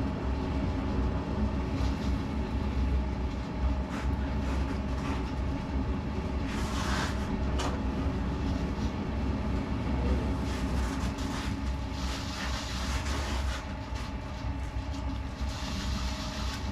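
Potter's wheel spinning with a steady low rumble and hum, with a few short hissing noises.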